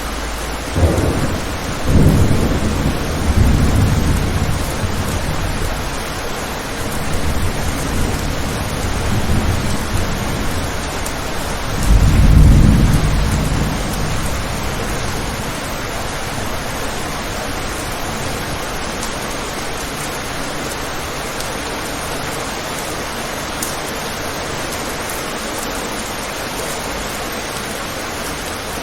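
Thunder rolling over steady rain on a window: a few sharp claps in the first few seconds, rumbling on in swells, the loudest peal about twelve seconds in, then dying away and leaving only the even hiss of the rain.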